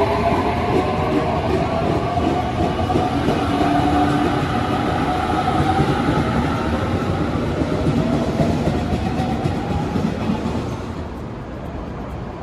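A train running past at close range, with a dense rumble of wheels on rails and a whine that rises slowly in pitch over it. The noise drops off sharply near the end.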